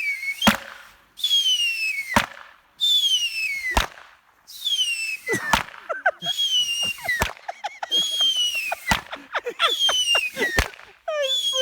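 Whistling fireworks going off in a regular string. Seven times, a high whistle falls in pitch and ends in a sharp bang, about one every 1.7 seconds. Near the end a wavering, lower pitched whistle joins in.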